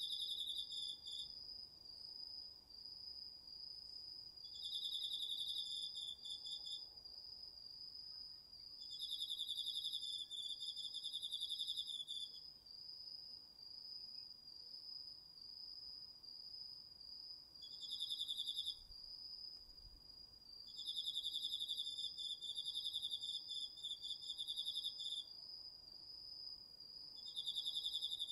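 Autumn insects singing at night, crickets among them: one insect keeps up an unbroken, steady high trill, while a second joins in bouts of one to four seconds with a slightly lower pulsing trill, six times over.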